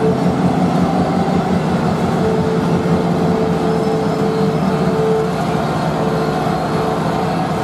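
A passing train: cab-unit diesel locomotives go by with their engines running, a steady drone with a high steady tone that comes and goes. The first Metra bilevel passenger car rolls past near the end.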